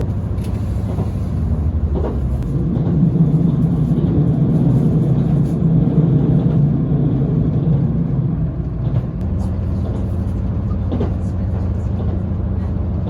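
Running noise inside a JR limited express train carriage: a steady low rumble that swells into a stronger drone from about three to nine seconds in, with a few sharp clicks.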